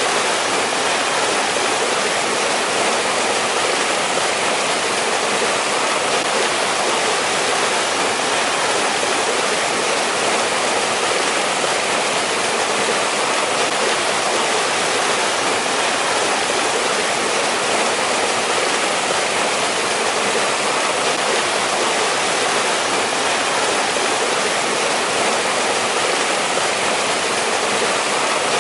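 Mountain valley stream running steadily, an even rushing of water without breaks.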